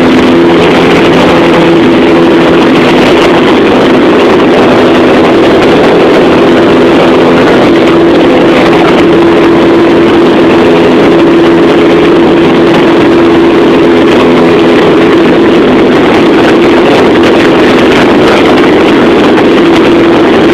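Cessna 177 Cardinal's single piston engine and propeller running steadily during takeoff: an even drone with a steady hum and a broad rushing hiss over it, unchanging throughout.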